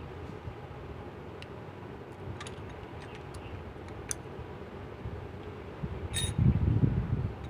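A few light metallic clicks of a combination wrench and flat screwdriver working a rocker-arm adjusting screw and locknut on a Mitsubishi 4D32 diesel engine, setting a valve clearance found slightly loose. A louder low rumble swells about six seconds in.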